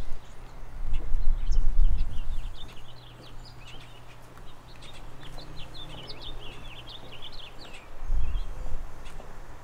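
A songbird singing a run of quick, warbling chirps for several seconds, with two spells of low rumble, one near the start and one near the end.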